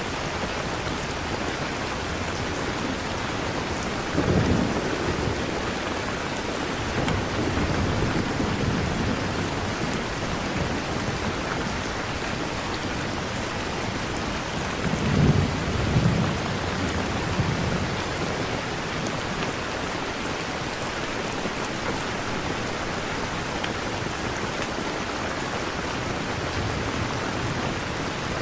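Steady rain ambience with thunder rumbling low twice, about four seconds in and again about fifteen seconds in.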